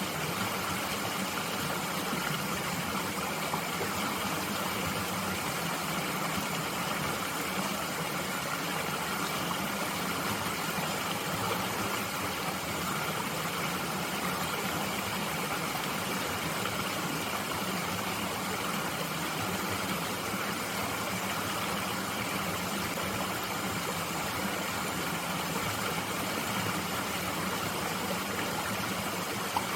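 Mountain stream flowing, a steady unbroken rush of water.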